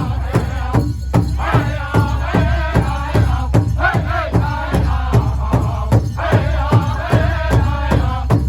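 Powwow drum group singing a men's traditional song: a steady, even beat of about four strokes a second on a big drum under several men's voices singing together, high-pitched and wavering.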